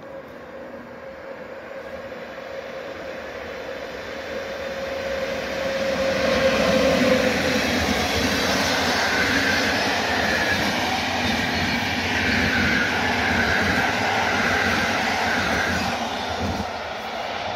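Passenger train approaching and passing at speed: a rumble that grows louder for the first several seconds, with a steady faint tone that drops in pitch as the head of the train goes by about seven seconds in. Then the loud rush of the coaches going past with a faint high wheel squeal, easing off near the end.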